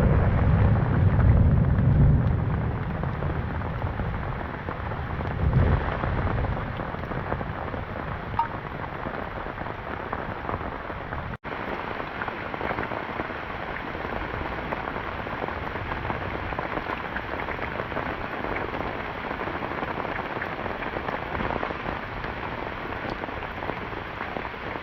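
Heavy rain falling steadily, with a low rumble of thunder during the first few seconds and again briefly about five seconds in.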